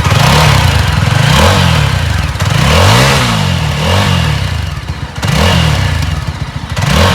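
Yezdi Scrambler's 334 cc liquid-cooled single-cylinder engine revved repeatedly through its twin exhausts: about six throttle blips, each rising and falling in pitch, the longest and highest about three seconds in.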